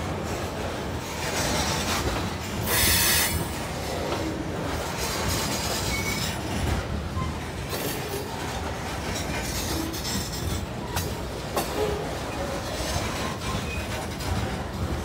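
Covered hopper cars of a freight train rolling past close by, a steady rumble of steel wheels on rail. There is a short high-pitched wheel squeal about three seconds in, and a few sharp clicks near the end.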